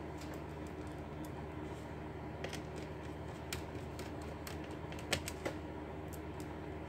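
Irregular light clicks and taps from handling laptop case parts and tools, with two louder clicks a little after five seconds, over a steady low hum.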